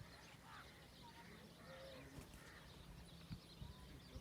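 Faint birdsong outdoors: several birds giving short scattered chirps and calls, some high and some lower, over a faint steady low hum.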